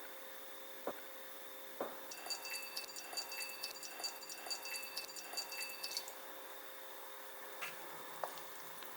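Water heated on a clothes iron, simmering faintly with a quick run of small pops and drips for about four seconds.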